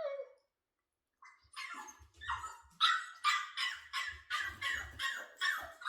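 A young puppy barking in a quick run of short barks, about three a second, starting about a second and a half in.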